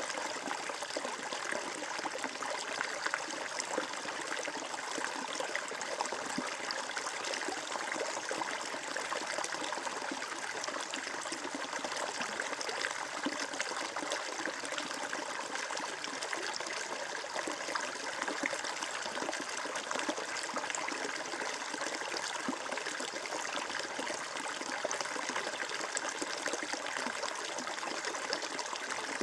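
Steady flowing water, a small stream trickling and burbling over stones, with constant fine splashing and no change in level.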